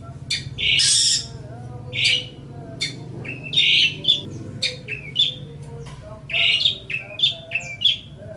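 Long-tailed shrike (cendet) singing: a rapid string of short sharp chips broken by harsh, scratchy chattering bursts, with a steady low hum underneath.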